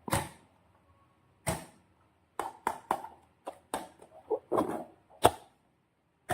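Slime being handled and squished by hand, making about a dozen short, sharp sticky clicks and pops at irregular intervals, with quiet gaps between.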